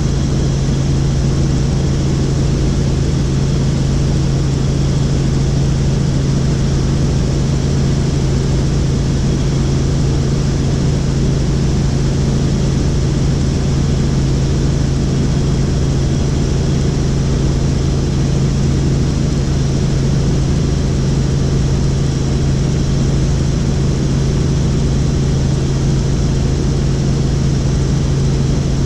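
Helicopter in flight: loud, steady drone of engine and rotor with a strong low hum.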